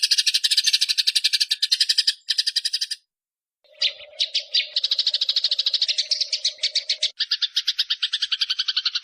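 Eurasian tree sparrows' fighting chatter: a rapid rolling run of sharp chirps, roughly ten a second, that stops dead about three seconds in and starts again half a second later.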